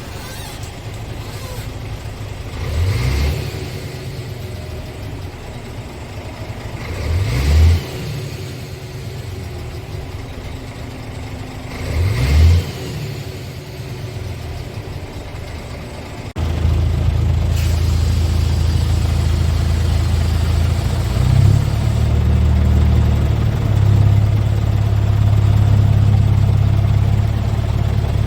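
Scania R450 tractor unit's 13-litre six-cylinder diesel engine idling and revved three times, each rev rising and falling in pitch about five seconds apart. About halfway through, the sound jumps suddenly to a louder, steady idle with slight swells.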